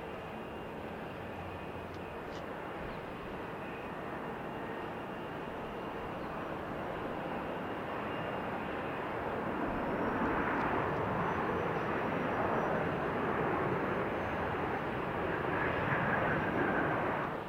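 Fixed-wing aircraft engines making a steady rushing roar. It grows louder over the first half, stays loud, then stops abruptly near the end.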